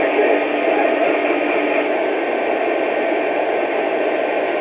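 Steady hiss of static from a two-way radio, with no voice coming through.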